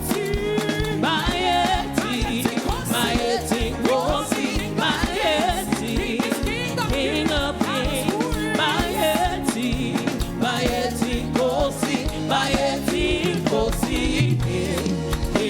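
Live gospel praise-and-worship music: singing with wavering, ornamented melody lines over a church band with a steady bass and beat.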